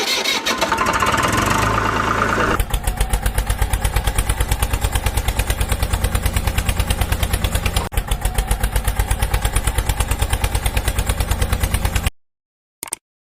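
An engine revving briefly, then idling with a steady low chugging beat of about six to seven pulses a second, which cuts off suddenly near the end.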